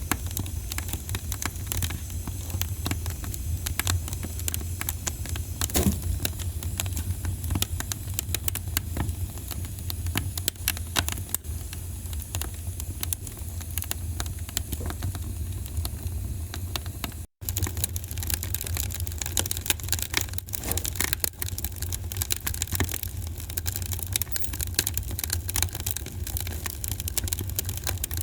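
Wood fire crackling in a fireplace: many sharp, irregular pops and snaps over a steady low rumble. The sound cuts out for an instant about two-thirds of the way through.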